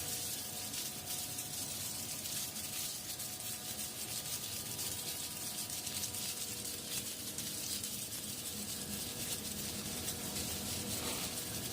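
Industrial flake ice machine running: a steady hiss with several steady hum tones underneath.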